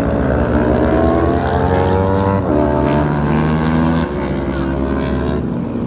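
Superbike engine at high revs on a track, its pitch climbing, then dropping and shifting about halfway through and again near the end, as with gear changes.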